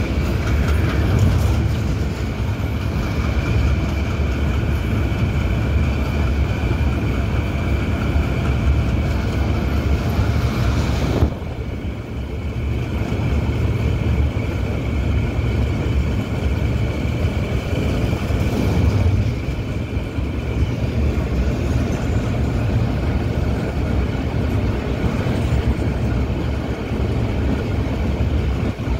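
Passenger train carriage running over a long rail bridge: a steady low rumble of wheels on the track with thin high steady tones above it, easing briefly about eleven seconds in.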